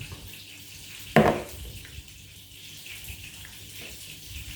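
Chicken fillets frying in a pan, a steady sizzle, with a single thump about a second in.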